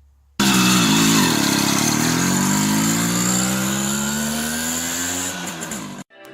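Simson moped's two-stroke engine accelerating: it starts abruptly, dips briefly in pitch, then climbs steadily for about five seconds before cutting off suddenly.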